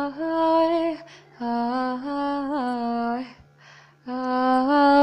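A girl's voice singing unaccompanied, holding three long vowel notes with small pitch slides, with breaths audible between them.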